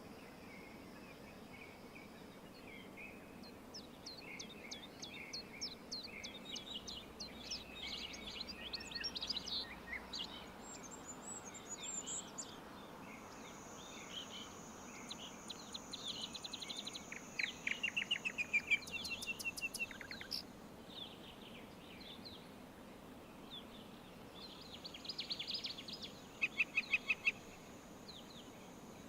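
Songbirds singing: quick chirps and fast trilled runs of notes, over a steady high-pitched insect buzz that comes and goes and a soft background hiss.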